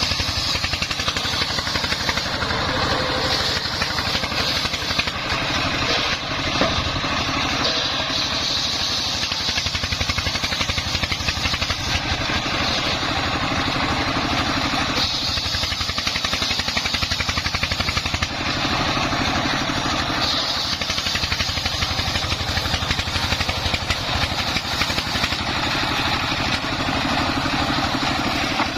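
Dongfeng 24 hp single-cylinder diesel engine running steadily under load, driving a homemade circular sawmill as timber is sawn. A rapid, even pulse runs under a hiss whose strength shifts a few times, around the middle and later on.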